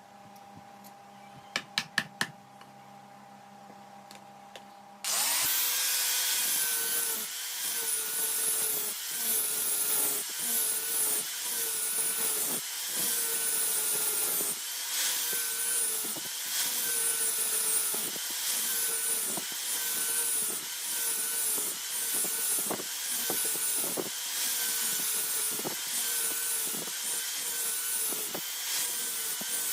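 A few faint clicks, then about five seconds in a power tool starts working material, its motor tone dipping with each stroke about once a second.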